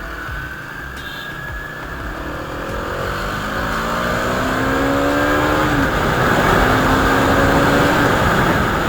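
Motorcycle engine pulling away and accelerating, its pitch climbing and dropping back at two gear changes in the second half, under rising wind noise on the microphone.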